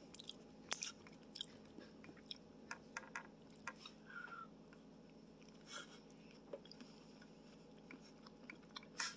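Faint close-up mouth sounds of a person biting and chewing an Indian sweet: scattered small clicks and smacks.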